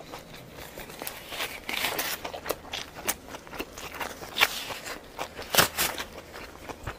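Irregular light clicks, knocks and scrapes of tableware being handled, with a short stretch of rustling about two seconds in.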